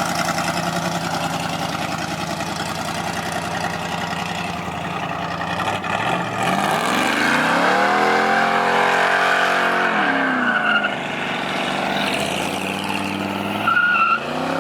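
A car engine running with a fast, pulsing rumble, then revved up about six seconds in, held high for a few seconds and let fall back. A second short rev comes near the end, with a steady high squeal-like tone over it.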